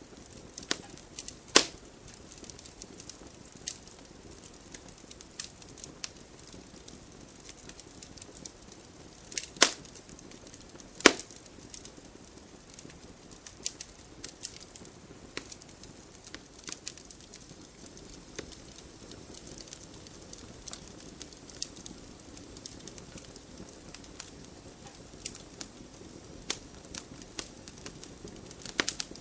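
Wood fire crackling in a fireplace: irregular sharp pops and snaps from the burning logs over a soft steady hiss, with three louder pops, one about two seconds in and two close together around ten and eleven seconds in.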